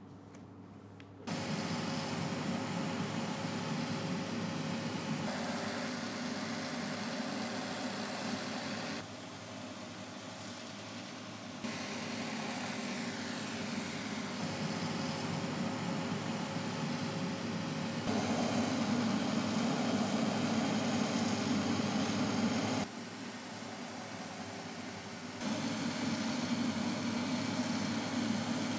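A motor-driven machine running with a steady hum. It starts abruptly about a second in and then changes level sharply several times.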